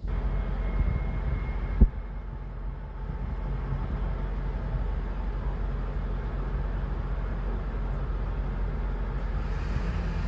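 Steady low rumble of a running vehicle engine, with a single sharp knock about two seconds in.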